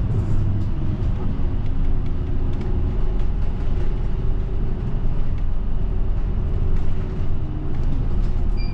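Steady low rumble of a route bus in motion, heard from inside the cabin: engine and road noise, with scattered light clicks and rattles.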